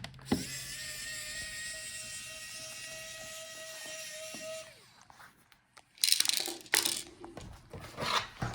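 Small electric screwdriver motor whirring at a steady pitch for about four seconds while backing out a laptop bottom-case screw, then winding down. A couple of seconds later there is a burst of louder clattering and scraping.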